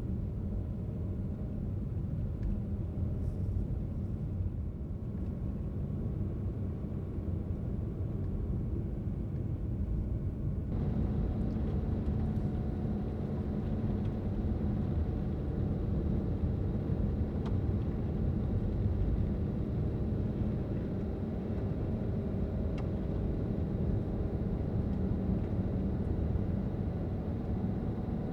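Car driving on a road: steady low rumble of tyres and engine. About eleven seconds in, the sound turns brighter, with more hiss added.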